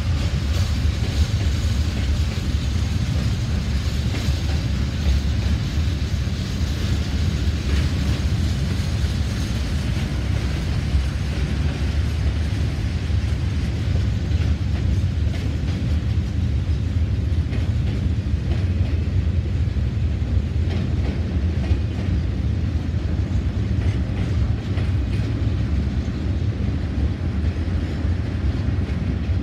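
Diesel-hauled passenger train running, a steady low rumble with a hiss above it that eases off about halfway through.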